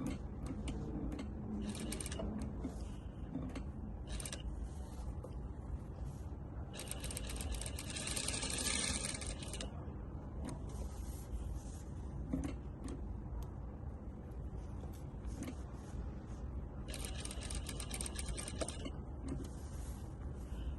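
Juki DDL7000A industrial single-needle lockstitch sewing machine sewing in several short runs over a steady low hum. The longest run lasts about three seconds near the middle, and another comes near the end, as the operator works the pedal to control the stitching.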